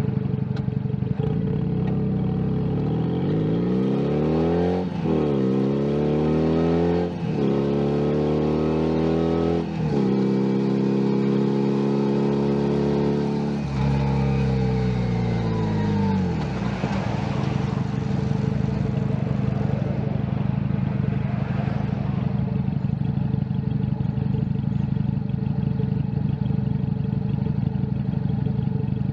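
Junak M11 Cafe motorcycle's 125 cc single-cylinder engine. It runs low, then pulls away, its pitch rising through three upshifts. It holds a steady cruise, then its pitch falls as the bike slows, and it settles back to steady low running.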